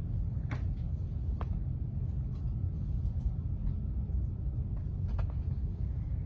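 Steady low rumble with a few faint, short clicks scattered through it.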